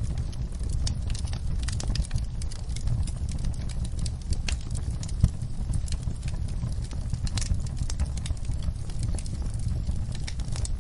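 Wood fire crackling in a fireplace: a quick, irregular run of small crackles over a low steady rumble of the flames, with one sharp, louder pop about five seconds in.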